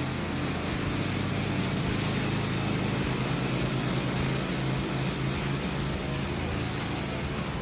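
Machinery running steadily: an even motor hum with a thin high whine above it.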